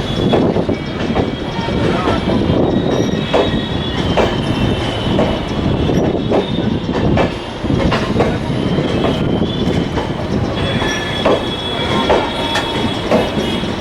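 Passenger train of LHB coaches rolling past, its wheels knocking irregularly over rail joints with a thin, high wheel squeal that grows stronger near the end.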